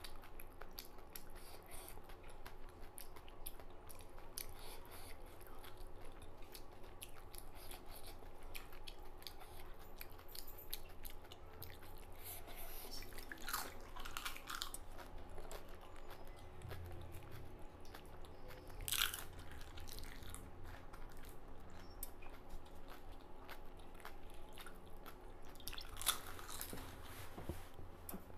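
Close-up chewing of pani puri: crisp, hollow fried puris filled with spiced water being bitten and chewed, with a few louder crunches among steady wet chewing.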